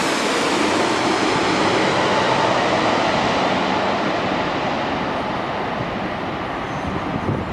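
Jet airliner's engine roar fading away as the aircraft moves off. The high hiss dies away first and the low rumble lingers.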